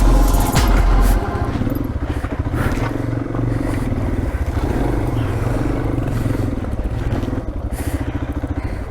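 Single-cylinder dual-sport motorcycle engine running under load on a dirt trail, loudest about the first second in, then carrying on at a steadier level.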